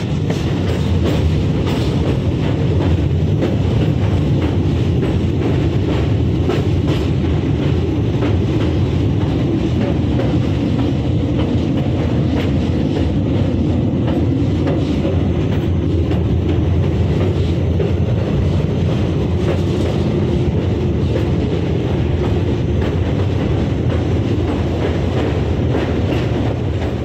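Passenger train running along the track: a steady heavy rumble with frequent clicks from the wheels on the rails.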